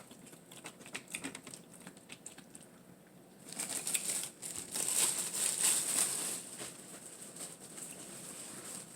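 Plastic bread bag crinkling and rustling as it is handled, starting about three and a half seconds in after a few light clicks.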